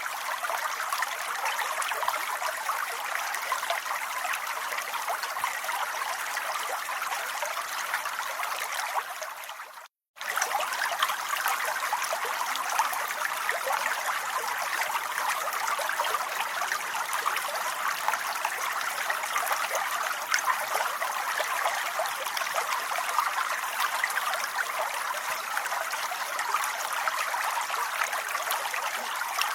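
Steady rain falling, a dense even patter of drops. About ten seconds in it dips and drops out to silence for a fraction of a second, then starts again at the same level.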